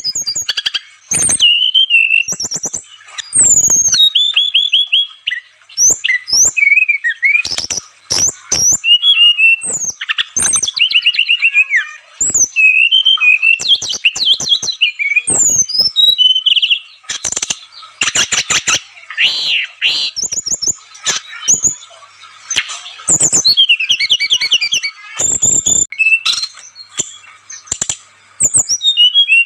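Brown-chested jungle flycatcher (sikatan rimba dada coklat) singing vigorously and without pause. Its song is a varied run of quick, high whistled phrases that slide up and down, mixed with sharp clicking notes.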